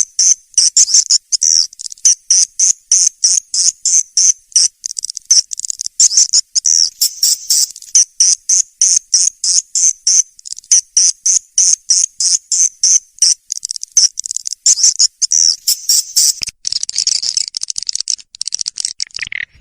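Swiftlet lure call: rapid, high-pitched chirping twitters of swiftlets, about three or four a second, turning into a denser unbroken chatter near the end. It is the kind of recording played to draw swiftlets into a nest house.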